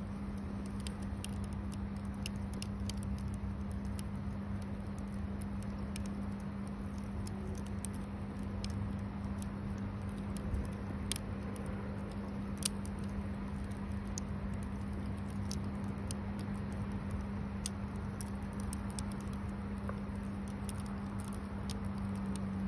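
Bonfire crackling: irregular sharp pops and snaps over a low rumble. A steady low hum runs underneath.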